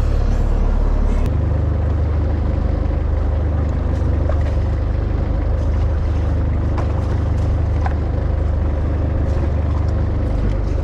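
Motorboat engine running steadily with a low hum; its note shifts slightly about a second in.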